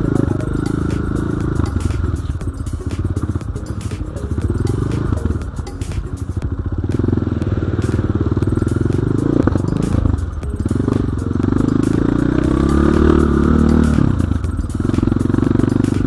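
Enduro dirt bike engine running and revving under load, its pitch rising and falling, with frequent short clicks and knocks.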